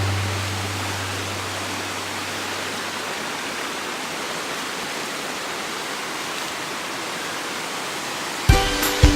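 Waterfall with a steady rush of falling water. The end of a music track fades out in the first few seconds, and music with sharp bass beats starts again near the end.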